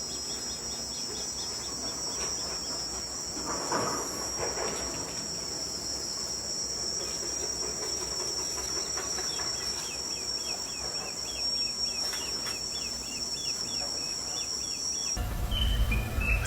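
Rainforest insect chorus: a steady high-pitched buzzing drone, with runs of short repeated chirps through the middle. The chorus cuts off near the end, giving way to a low hum.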